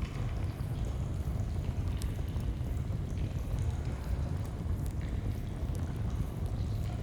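Steady low rush of a flowing stream, with a few faint campfire crackles scattered over it.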